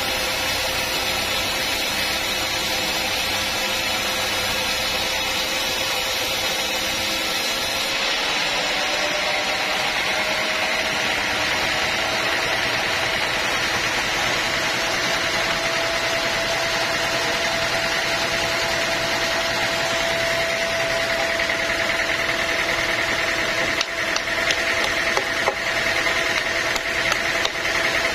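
Sawmill machinery running steadily, its hum rising a little in pitch about 8 to 10 seconds in and then holding. A few sharp knocks come near the end.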